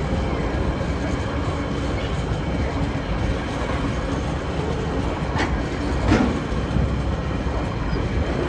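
Freight train rolling past with a steady rumble of wagon wheels on the rails, and two sharp wheel clacks about five and six seconds in.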